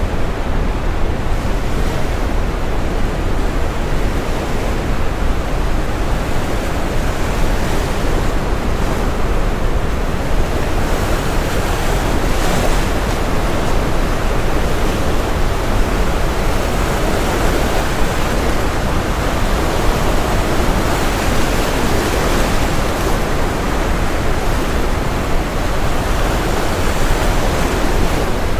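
Steady brown noise, deep and rumbling, layered with ocean waves breaking on a shore; the surf swells up and washes back a couple of times over the steady low hiss.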